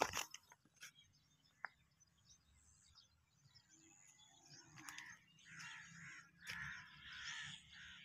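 Faint bird calls and chirping, growing busier from about halfway through. A sharp click comes at the very start, then a couple of lighter clicks.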